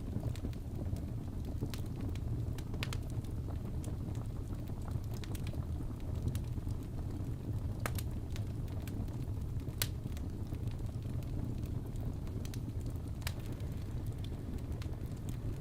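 Crackling fireplace: a steady low rumble of burning logs with sharp, irregular pops and crackles every second or few.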